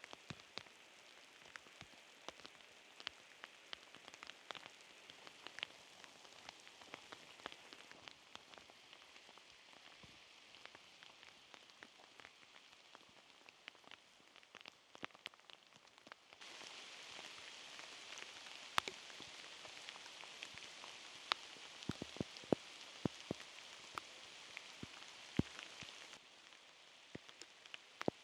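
Rain falling: a steady hiss with many separate drops ticking close by. The rain is louder for about ten seconds in the second half.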